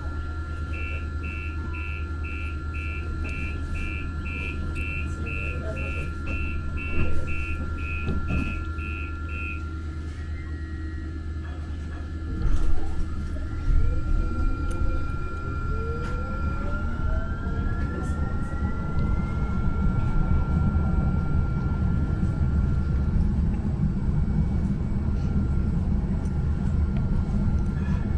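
Muni Metro light-rail car's door warning chime beeping rapidly, about two beeps a second for some eight seconds, then the train pulls away: the traction motors' whine rises in pitch as the wheel and motor rumble grows.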